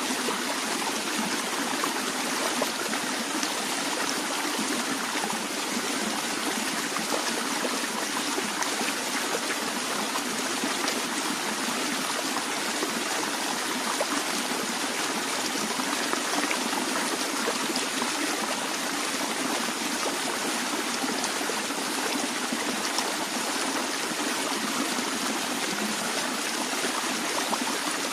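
Small stream flowing steadily over stones, a continuous splashing babble with fine trickling and bubbling throughout.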